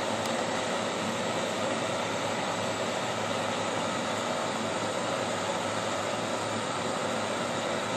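Thermal-lag Stirling engine running steadily: an even mechanical noise with a faint steady hum, unchanging in speed or loudness.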